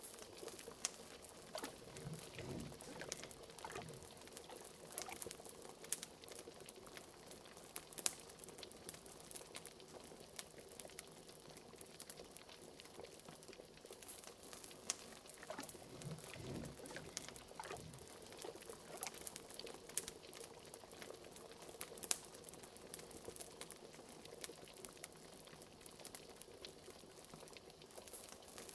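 Liquid bubbling in a cauldron, with a few deeper gloops near the start and again about halfway, over the scattered crackles and pops of a wood fire.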